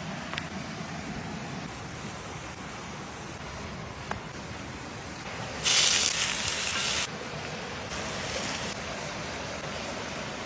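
Steady background noise, broken by a loud hiss that starts and stops suddenly a little past halfway, then a shorter, softer hiss near the end.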